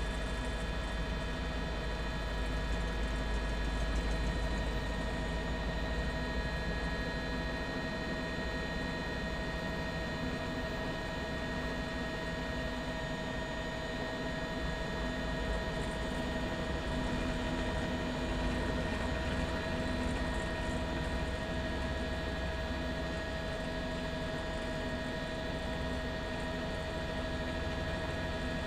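Steady drone of a news helicopter's engine and rotor heard from inside the aircraft, with several steady whining tones over a low rumble.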